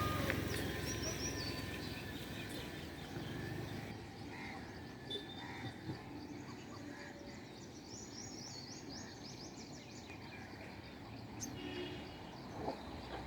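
Several birds chirping and calling over a steady background hiss, with a quick run of high repeated notes about eight seconds in.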